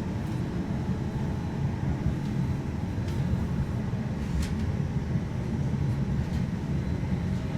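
QLine streetcar in motion, heard from on board: a steady low rumble of the car running along the rails, with a few faint clicks and rattles.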